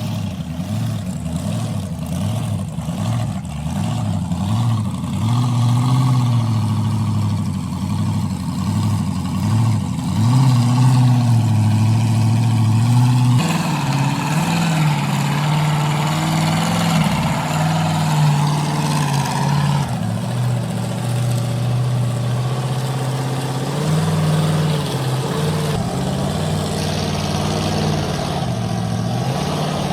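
Monster truck engine running and revving, its pitch rising and falling again and again, with a few abrupt shifts in the sound where the footage cuts.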